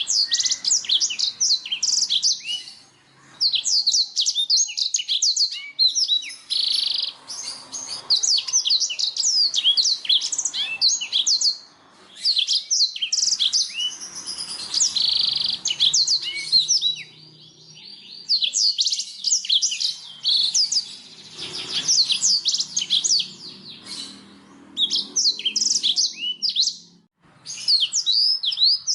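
Blackthroat (black-throated canary) singing long phrases of rapid, high twittering chirps, separated by short pauses.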